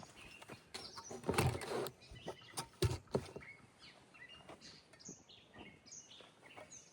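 Several sharp knocks and clatters of things being handled, with a short rustling scrape about a second in, while small birds chirp.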